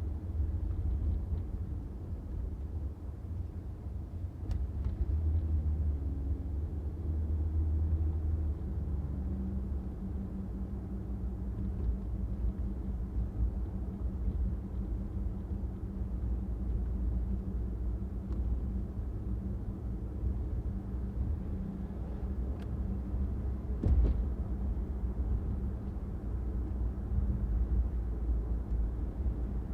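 Car driving, with a steady low road and engine rumble and a hum that settles about ten seconds in. There is a single brief knock about 24 seconds in.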